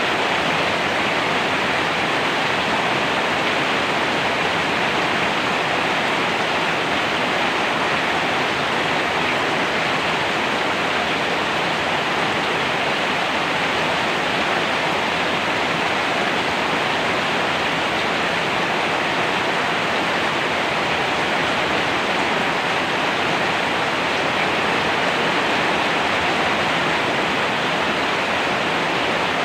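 Steady heavy rain, an even unbroken hiss with no separate drops or thunder standing out.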